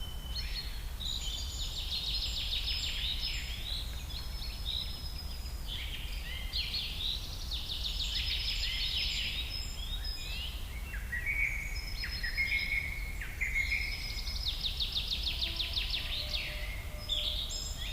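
Several songbirds singing at once, a chorus of chirps, whistled phrases and fast trills, over a steady low background rumble.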